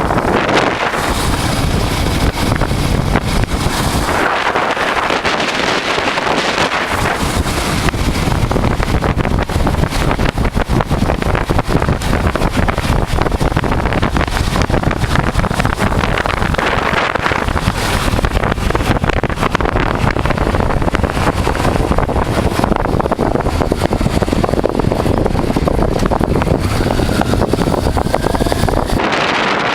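Wind rushing and buffeting over the microphone on a moving motorcycle, over the steady running of a Honda Transalp's V-twin engine at road speed. The low rumble dips for a few seconds now and then.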